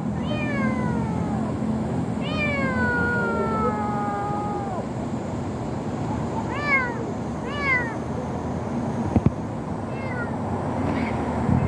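Kitten meowing: a short meow, then a long meow that falls in pitch, then two short meows about a second apart, and a faint one near the end, over a steady background hiss. A sharp knock sounds about nine seconds in.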